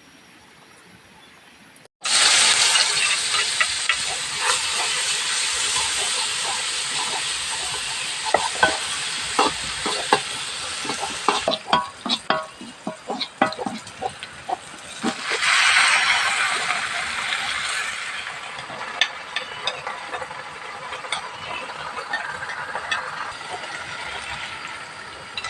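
Food sizzling as it fries in a pan, stirred with a utensil that clicks and scrapes against the pan. It starts suddenly about two seconds in, with the hiss swelling again a little past the middle.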